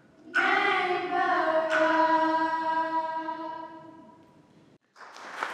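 Female voices singing together, holding a long closing note that fades away. Applause starts just before the end.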